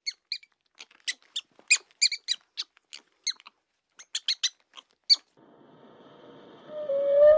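A rapid run of short, high-pitched animal squeaks lasting about five seconds. A steady hum follows, and near the end a long, steady, held tone begins.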